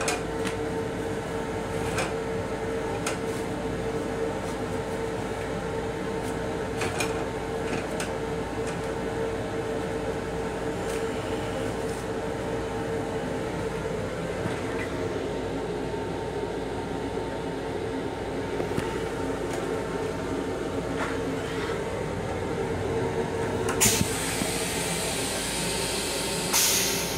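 Running noise inside a moving Long Island Rail Road M7 electric railcar: a steady rumble with a humming tone and occasional sharp clicks. Near the end a loud hiss starts as the restroom toilet begins to flush.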